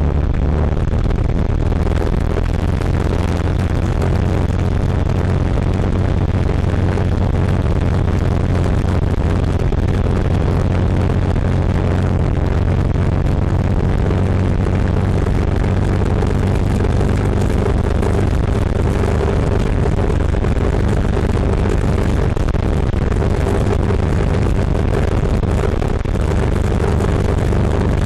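Cagiva River 600's big single-cylinder engine running steadily under way. It is picked up by a recorder inside a side pannier and sounds muffled yet badly distorted; the uploader puts the distortion down to the recording level clipping.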